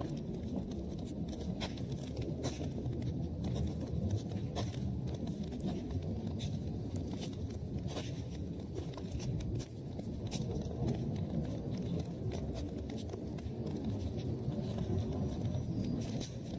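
Wood fire crackling in a fireplace: frequent irregular small pops and snaps over a steady low rumble of burning.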